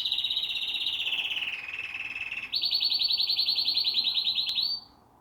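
Domestic canary singing: a fast trill of repeated notes that slides gradually down in pitch, then breaks into a second, higher rapid trill that stops abruptly near the end.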